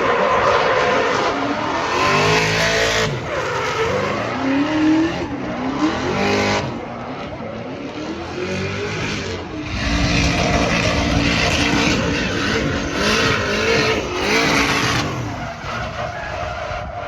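LS V8 twin-turbo engine in a drifting Toyota Supra MK4, revving up and down repeatedly, over the hiss and squeal of the rear tyres sliding. The engine is loudest around two seconds in and again from about ten to fifteen seconds, then fades near the end.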